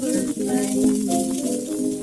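Music from a 1929 78 rpm record of a male vocal duet with piano, heard here as sustained pitched notes with some sliding pitches over the record's steady surface hiss.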